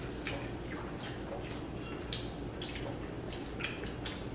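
Close-miked chewing: a string of short, irregular wet clicks and smacks from mouths eating sushi and hand rolls, over a steady low hum.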